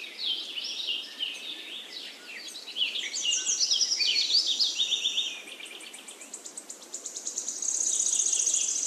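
Small birds chirping and twittering, many quick falling notes overlapping, with a fast, high trill near the end.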